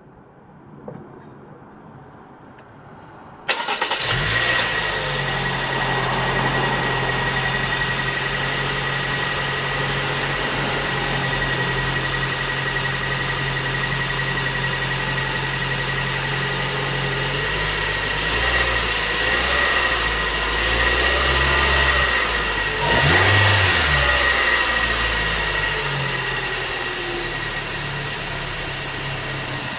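Toyota Corolla Fielder's 2NR-FKE 1.5-litre four-cylinder engine starting about three and a half seconds in, then idling steadily with a faint high whine. Partway through, the idle grows uneven, with a brief rise in engine speed a little past twenty seconds in.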